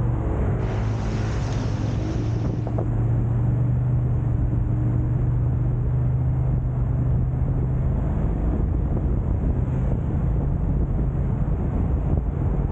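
Car on the road: steady low engine and road rumble with a held hum. A brief rush of hiss comes in about half a second in and stops at around three seconds.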